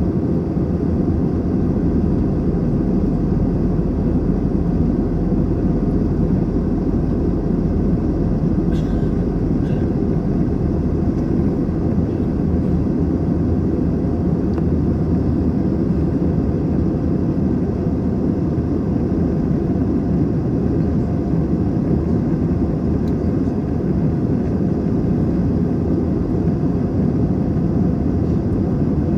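Airbus A321 in flight, heard from inside the passenger cabin: a steady, even low rush of airflow and engine noise.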